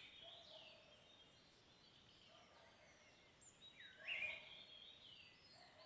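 Faint bird calls: a few short, curving whistled notes, heard at the start and again about four seconds in.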